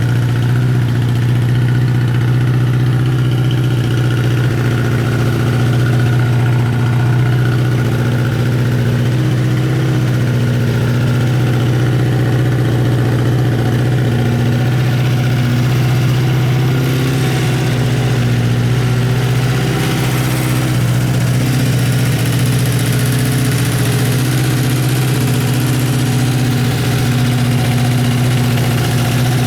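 Honda CBX550F2 Integra's air-cooled inline-four engine idling steadily, with no revving.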